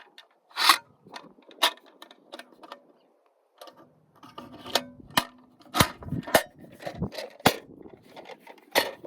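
A string of sharp metallic clicks, clinks and knocks from hands working with tools and parts, irregularly spaced, with a brief lull about three seconds in.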